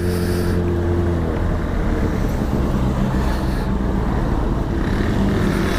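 Honda CBR600RR's inline-four engine running while the bike is ridden, with wind rushing over the microphone. The steady engine note changes about a second and a half in.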